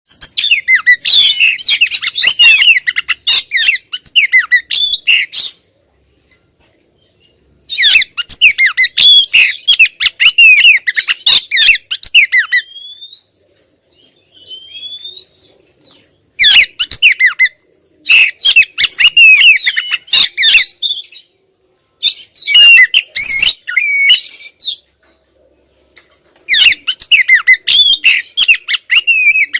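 Female oriental magpie-robin calling insistently: bouts of fast, busy chattering and squawking calls a few seconds long, broken by short pauses. This insistent female call is the kind that sets male magpie-robins off.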